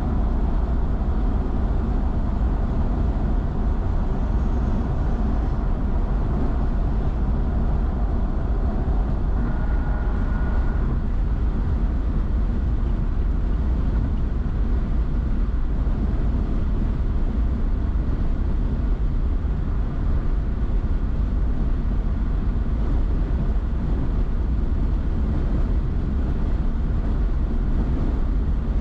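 A car driving at highway speed: steady road and engine noise with a deep rumble and no change in level.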